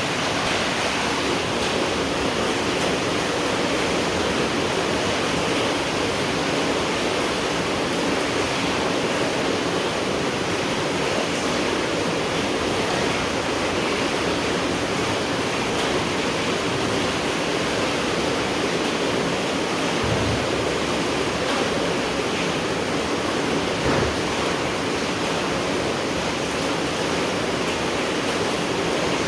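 Steady heavy rain falling, an even unbroken hiss, with one brief tap about three-quarters of the way through.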